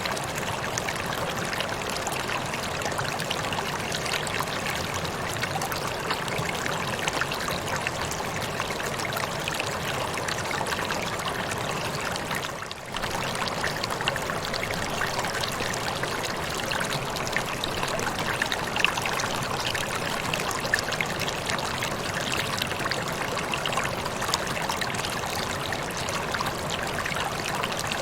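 Waterfall: water pouring and splashing in a steady, even rush, dipping briefly about halfway through.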